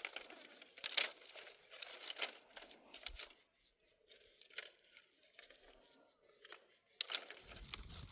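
Irregular crackling and rustling, sharp crackles coming in uneven clusters with short quiet stretches between them.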